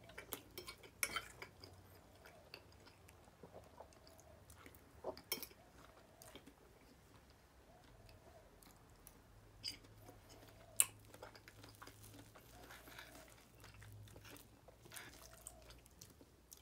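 Faint close-up chewing of soft pancakes and fruit, with scattered sharp clicks of a metal fork and knife against a plate.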